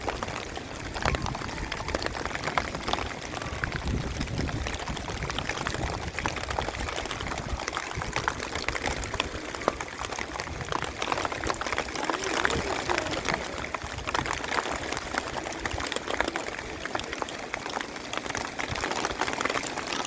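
Heavy rain falling: a dense, steady patter of many drops splashing.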